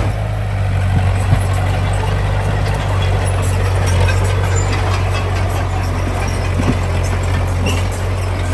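Heavy diesel engine of earthmoving machinery running steadily with a deep, even drone, with a couple of brief knocks.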